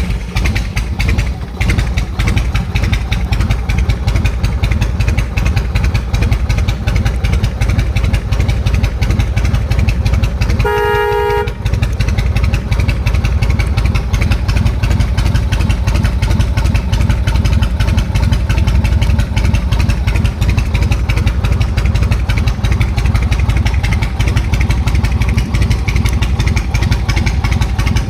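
Yamaha Road Star 1700's carbureted pushrod V-twin idling steadily just after starting, with a fast even pulse. About eleven seconds in, the horn sounds once for about a second.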